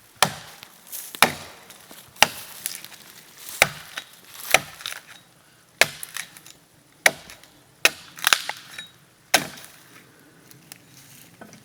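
About ten sharp chopping strikes, roughly one a second, into the resin-soaked canker wood of a dry fallen pine, chipping off a small piece of fatwood kindling.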